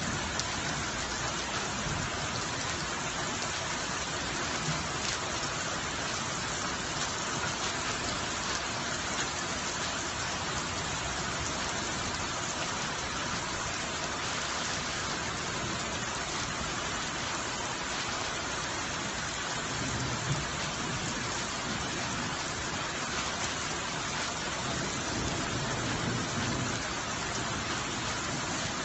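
Steady rain falling during a thunderstorm, an even hiss with no letup.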